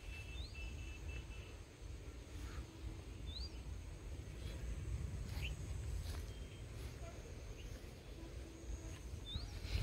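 Faint outdoor ambience with a steady low rumble, and a small bird giving a short rising chirp three times: about a second in, a few seconds later and near the end.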